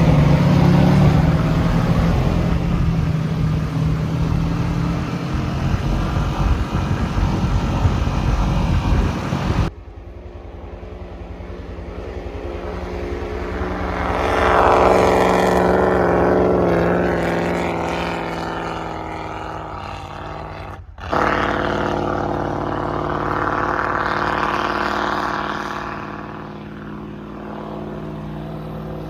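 Bullnose Ford Bronco's engine running under load while driving through deep snow. It revs up and climbs in pitch about halfway through, then eases off. The sound changes abruptly twice, about a third and two-thirds of the way through.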